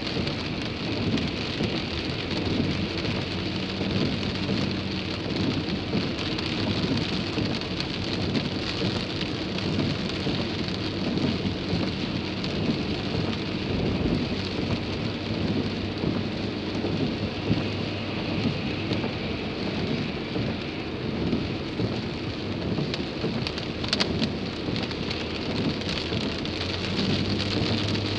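Heavy rain drumming on a car's roof and windscreen, heard from inside the cabin, over a steady low hum of the car moving slowly through the downpour. A single sharp click sounds near the end.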